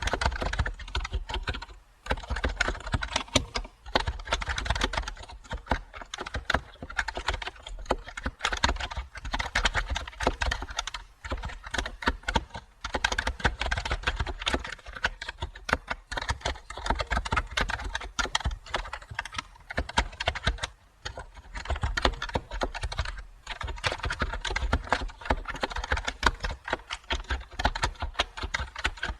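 Fast, continuous typing on a computer keyboard: dense, irregular key clicks with brief pauses every few seconds.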